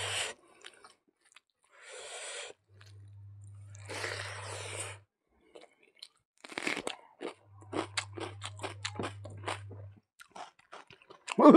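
Close-up eating sounds: crunching and chewing, with a run of sharp crisp crunches in the second half as a raw red onion is bitten and chewed. Two stretches of soft hiss come before the crunching.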